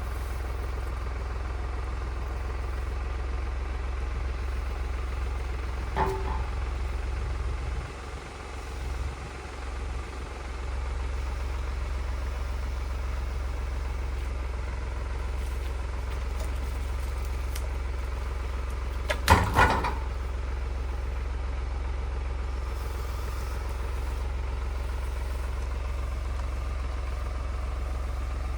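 Tractor engine running steadily, with a single sharp knock about six seconds in and a short cluster of loud knocks around twenty seconds in.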